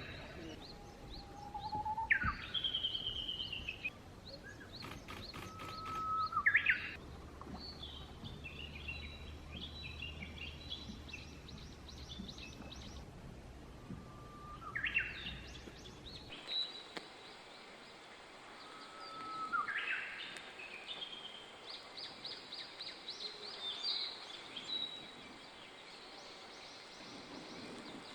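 Several small songbirds calling and singing: short chirps, trills and quick rising whistles overlapping one another. A faint low hum underneath stops about halfway through.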